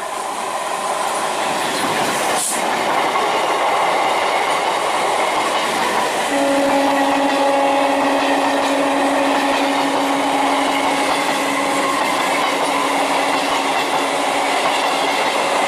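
Indian Railways electric multiple unit (EMU) commuter train passing close by at speed: a steady rumble and clatter of wheels on the rails, growing louder over the first few seconds. About six seconds in a steady low hum joins it and fades out near the end.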